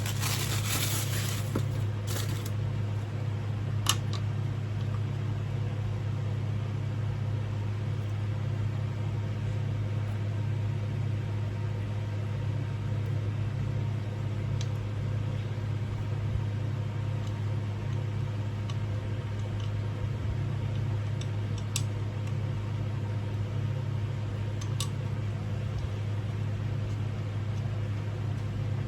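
A steady low mechanical hum, even in level throughout, with a few faint clicks at scattered moments.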